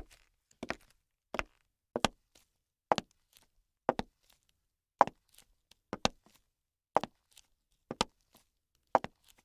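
A regular series of sharp knocks, about one a second, each followed closely by a softer one.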